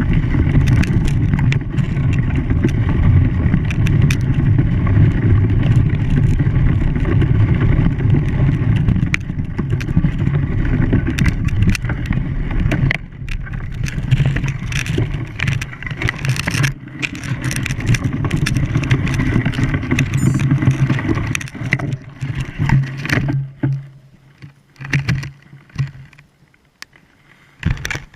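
An engine running with a steady low hum and rough noise over it, with scattered knocks and clicks. It weakens partway through and dies away near the end.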